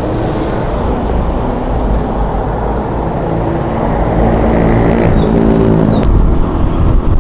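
A vehicle engine running at idle, then revving up with a rising pitch from about three seconds in as the vehicle pulls away.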